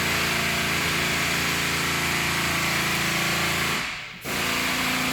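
A steady mechanical running sound, an even hum under a hiss, that drops out for a moment about four seconds in and then starts again.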